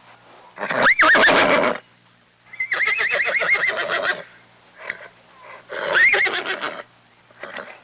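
Horse whinnying three times, the middle whinny long and quavering, with shorter quieter sounds in between.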